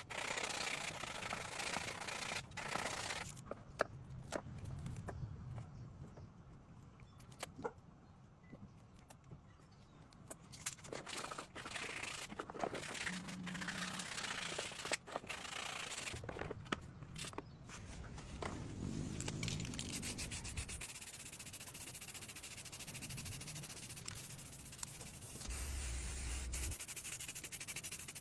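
Hand work on the rusty metal parts of an old lawn mower: irregular rubbing and scraping with scattered sharp clicks and knocks, turning into a steadier continuous scrubbing hiss over the last third.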